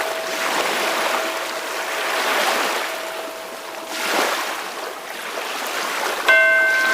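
Ocean waves washing in slow swells that rise and fall every couple of seconds, with a faint steady tone underneath for the first half. Near the end a ringing tone with overtones starts suddenly and holds.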